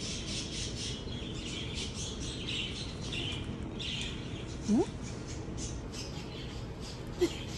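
Small birds chirping in a steady chatter, with one short rising call about five seconds in and another brief one near the end.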